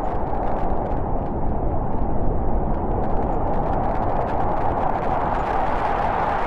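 Steady low rumbling rush of noise, a storm sound effect for an onrushing blizzard flood, with no breaks or single impacts.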